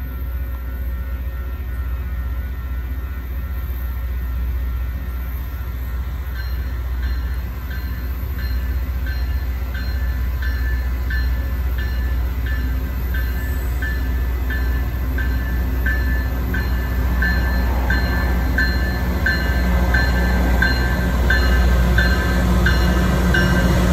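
Loram rail grinder train approaching with a low engine rumble that grows slowly louder. From about six seconds in, a bell rings steadily about twice a second.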